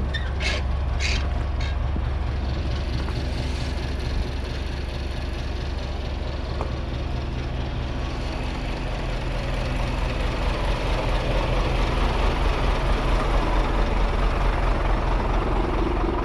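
A Scania truck's diesel engine idling steadily, with a few short sharp high sounds about a second in and a low pulsing that gets louder over the last several seconds.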